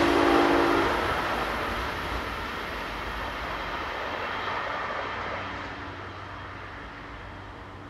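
Passing train's rumble fading steadily as it moves away, with a short two-note steady tone in the first second.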